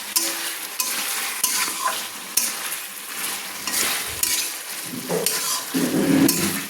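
Chicken pieces being stirred with a spatula in a hot pan of oil and spice paste on a medium flame. The chicken sizzles steadily under a run of repeated spatula scrapes, and the sound grows louder near the end.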